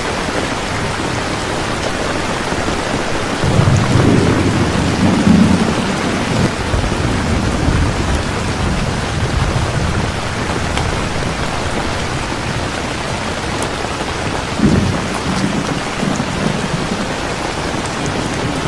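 Heavy rain falling steadily, with thunder rumbling low twice: a longer roll about four seconds in and a shorter one near the end.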